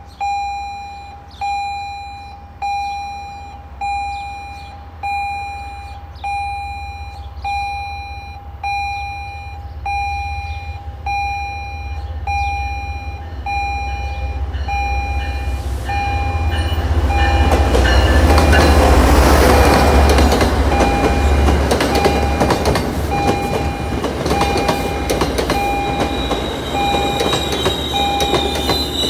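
A track-crossing warning bell dings steadily about once a second. An MBTA commuter train led by a diesel locomotive approaches, its noise building from about halfway through to its loudest a few seconds later, and the coaches roll past near the end.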